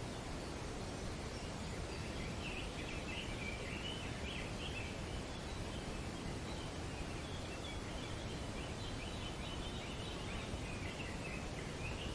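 Birds chattering in quick, shrill bursts, a stretch early on and another from about eight seconds in, over a steady rush of wind in the trees.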